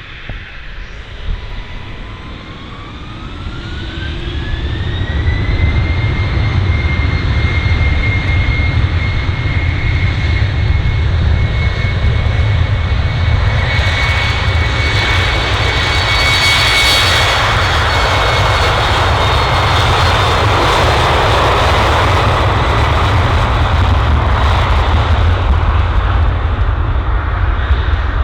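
Twin-engine jet airliner spooling up for takeoff: a whine rises in pitch over about four seconds as the engines come up to takeoff power. It then holds a loud, steady rumble through the takeoff roll, loudest about halfway through as the aircraft passes closest.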